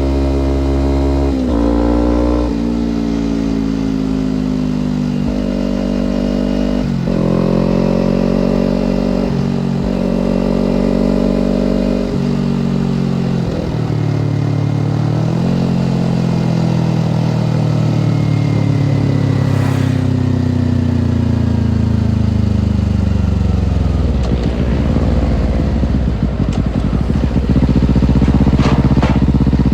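Kawasaki Ninja sport bike's parallel-twin engine under way, its pitch stepping at several gear changes in the first twelve seconds. It then falls slowly as the bike slows, settling at lower revs near the end.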